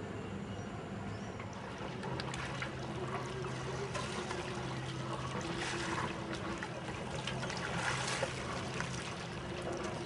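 Water splashing and washing along a sailing yacht's hull while it is under way, in irregular bursts, over a low steady hum.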